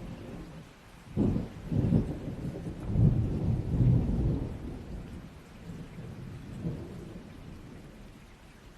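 A peal of thunder rolling over steady rain: it breaks in about a second in with a few deep surges, is loudest a few seconds in, and rumbles away toward the end.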